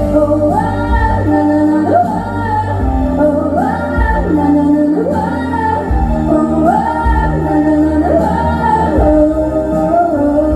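An 11-year-old girl singing with a musical backing track. She holds long notes that swell and fall in pitch over a steady bass line.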